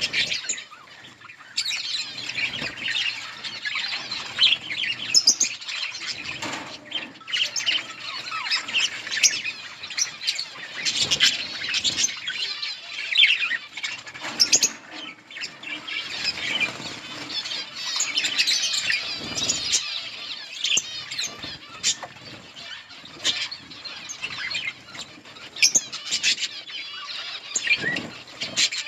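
A flock of budgerigars chirping and chattering continuously, many high, fast chirps overlapping, with a short lull about a second in.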